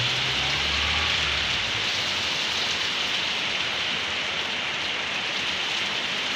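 Heavy rain pouring steadily onto a flooded road, a hard, even hiss from a downpour that is still getting heavier. A low hum fades away about two seconds in.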